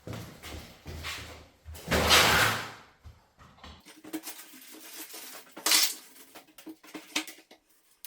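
Knocks, clicks and scrapes from handling wooden door-frame pieces, loudest in a noisy scrape of about a second around two seconds in and a shorter one near six seconds.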